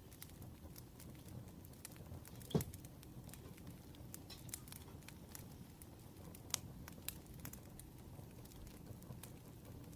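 Soft crackling of a wood fire: scattered small pops and snaps over a low rumble, with one louder knock about two and a half seconds in.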